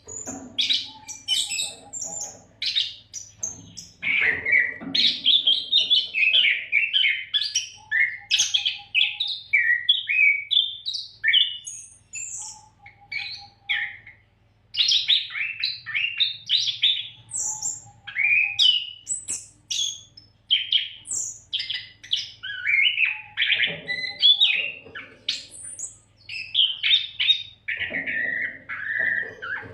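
Oriental magpie-robin (kacer) singing a fast, varied song of high whistles, chirps and rapid trills, nearly without pause, over a faint steady hum.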